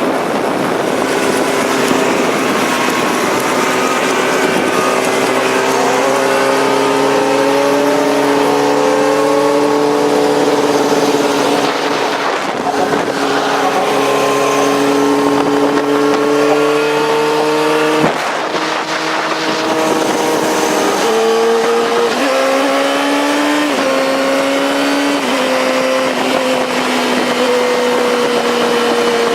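Motorcycle engine running under way, its pitch climbing slowly and then stepping several times in the second half as gears change, over steady wind rush.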